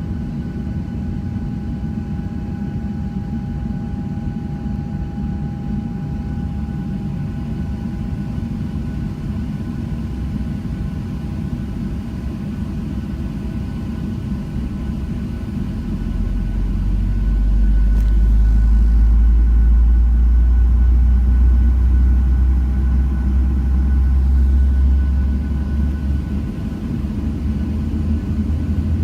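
Airliner cabin noise from a Southwest Boeing 737's jet engines on the ground: a steady whine over a low rumble. About halfway through, the deep rumble grows louder and stays up, easing slightly near the end.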